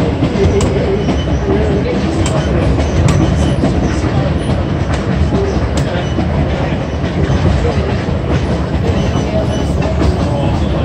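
Passenger train running along the track, heard from inside the coach: a steady rumble of wheels on rail with a few faint clicks.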